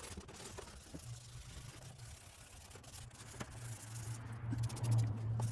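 A sanding pad rubbed by hand over a wet plastic headlight lens, giving soft scraping strokes with small clicks. A steady low hum comes in about a second in and grows louder toward the end.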